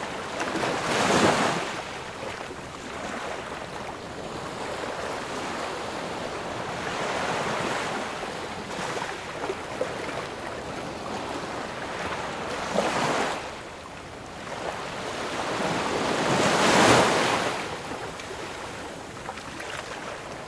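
Ocean waves breaking and washing ashore in a steady wash of surf, with three louder breaks: about a second in, about two-thirds of the way through, and the loudest a few seconds before the end.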